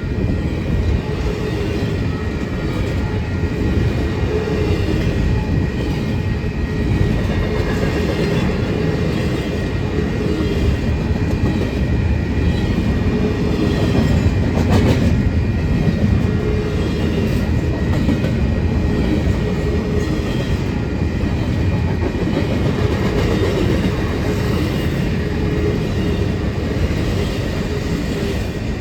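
Intermodal freight train cars rolling steadily past at a grade crossing: a continuous low rumble with wheels clacking over the rail joints and a faint high ringing of wheel on rail.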